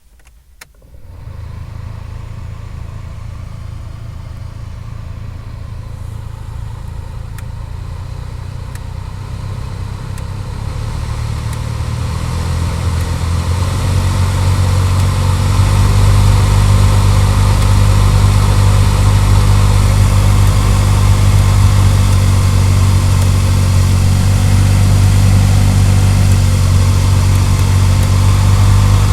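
Heater blower fan motor of a Mitsubishi Lancer CY starting up about a second in with a low hum and a rush of air. It grows steadily louder until about sixteen seconds in, then runs on steady and loud, which is the noise the owner is documenting.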